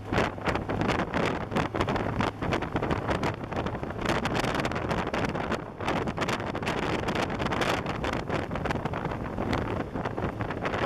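Wind buffeting the microphone of a camera on a moving motorcycle, in rapid irregular gusts, over a steady low rumble of engine and road noise.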